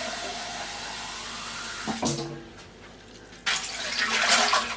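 Tap water running into a canner as it is filled, shut off about two seconds in with a clunk. About a second and a half later comes a second, louder spell of pouring water.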